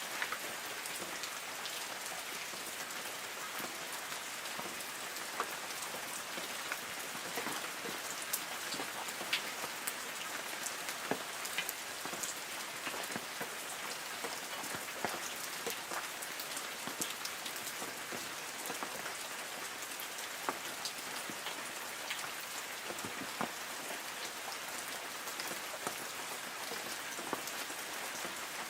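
Light rain falling on forest trees: a steady hiss of rainfall with many separate drops pattering and ticking on leaves.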